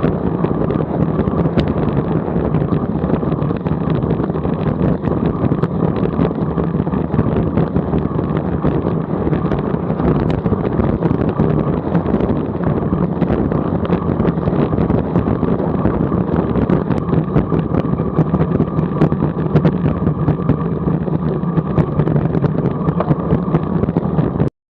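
Steady engine and road drone of a car driving, recorded by a dash camera, with no change in pitch. It cuts off abruptly near the end.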